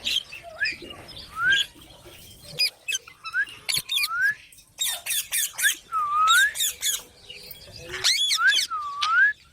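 Baby green parrot chirping and squawking. Repeated calls that dip and rise in pitch come about once a second, with quick runs of short, high, squeaky calls in the middle and again near the end.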